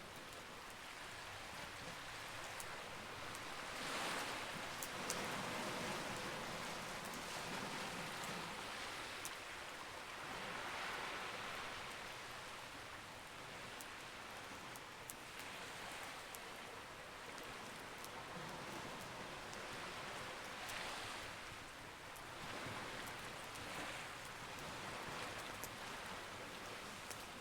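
Campfire crackling with scattered sharp pops over the steady rush of waves, which swells every five or six seconds.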